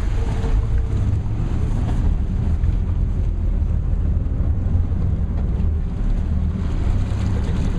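Tour boat's engine running with a steady low drone, with wind buffeting the microphone.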